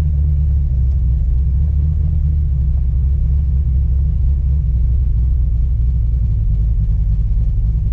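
Fox-body Mustang engine idling steadily, a low even drone heard from inside the cabin.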